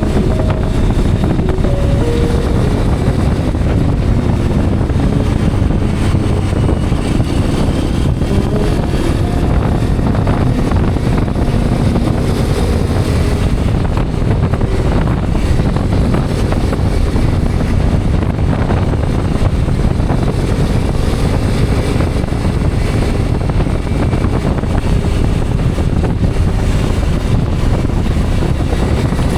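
Hero Xpulse 210's single-cylinder engine running steadily while the motorcycle is ridden, mixed with wind noise on the helmet or bike-mounted microphone.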